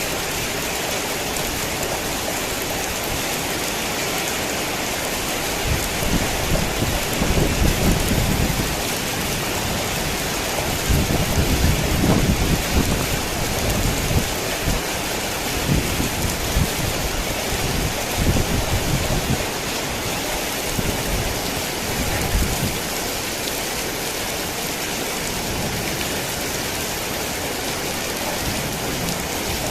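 Heavy rain falling steadily, with a long rolling rumble of thunder from about six seconds in until a few seconds past the twenty-second mark.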